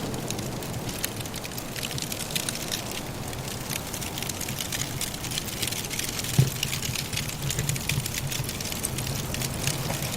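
Wood fire crackling in a fireplace: a steady stream of small snaps and ticks from the burning logs, with one louder pop about six seconds in, over a low steady rumble.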